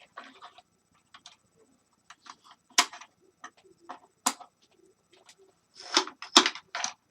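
Scattered clicks and clattering knocks of plastic appliance parts and small tools being handled during disassembly. There are sharper knocks about three and four seconds in, and a cluster of louder ones near the end.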